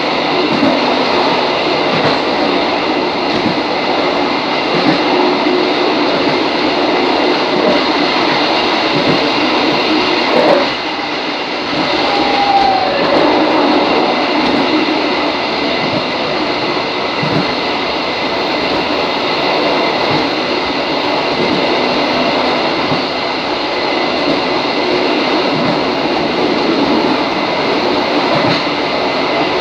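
KRD Bojonegoro diesel railcar running steadily along the track, heard from its rear cab: continuous rail and running noise. A single knock comes about ten seconds in.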